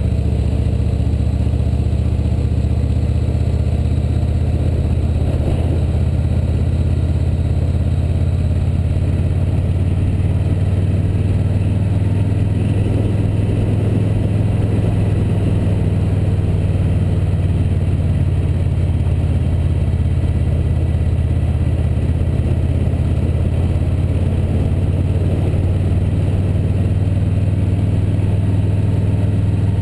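Motorcycle engine running at a steady cruise, a constant low drone with no change in pitch.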